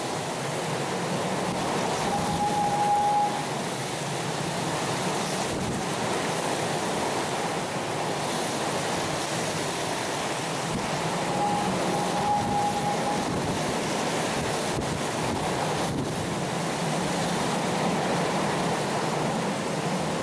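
Heavy rain pouring steadily, with wind gusting through it. A short steady tone sounds twice, about two seconds in and again about halfway through.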